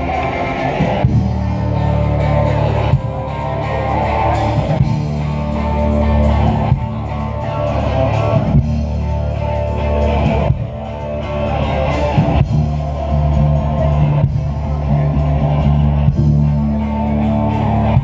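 A band playing a heavy metal song live, with electric guitar over bass and drums.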